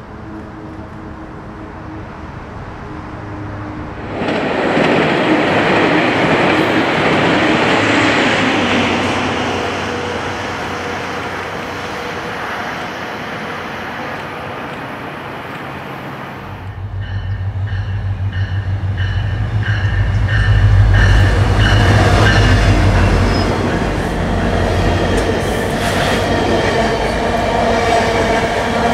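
Metrolink commuter trains passing: a diesel locomotive's engine and steel wheels on rail, then bilevel passenger coaches rolling close by, with a strong low rumble and high ringing wheel squeal over the clatter. The sound changes abruptly twice, at about 4 s and about 17 s in.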